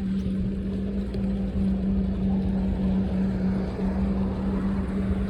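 Riding noise from a moving bike: a steady hum with wind and road rumble on the handlebar-mounted phone's microphone.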